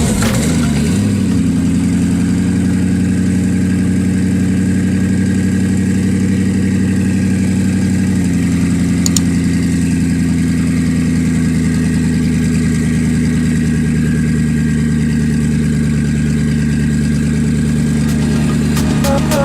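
A car engine idling steadily, its pitch settling down about a second in.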